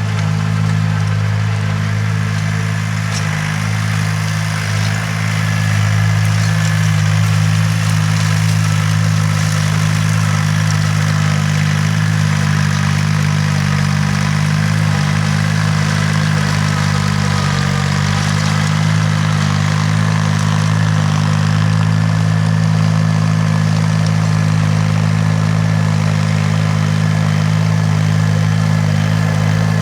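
Engine of a tilling machine running steadily at an even speed, a constant low mechanical drone, dipping slightly about four seconds in.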